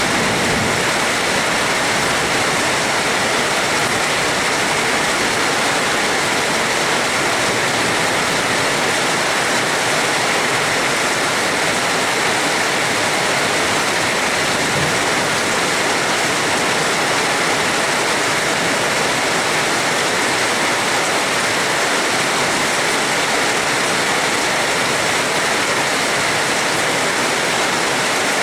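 Heavy, steady rain with a dense, even hiss and no thunder.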